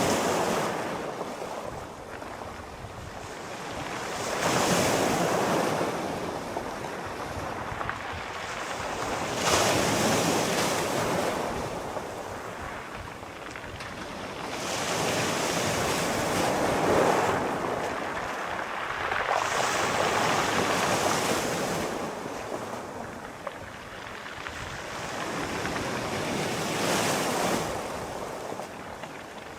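Sea waves breaking and washing onto a shore, each one a swelling hiss that rises and fades, arriving roughly every four to five seconds.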